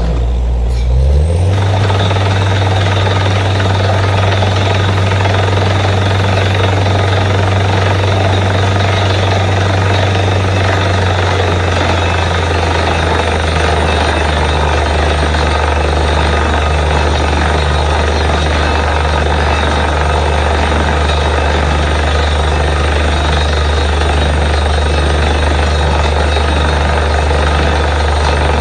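Borewell drilling rig's diesel engine running hard, revving up about a second in, with a steady rushing noise from the drilling over it.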